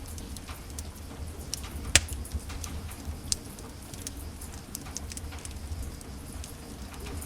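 Wood fire in a fireplace crackling: irregular sharp pops and snaps over a low steady rumble, the loudest pop about two seconds in.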